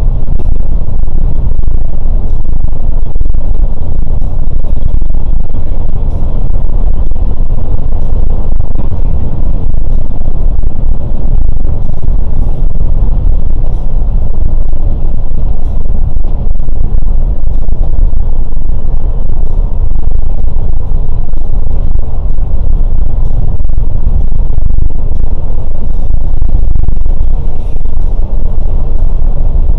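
Scania K410 coach under way: a loud, steady low rumble of engine and road noise, with faint scattered ticks throughout.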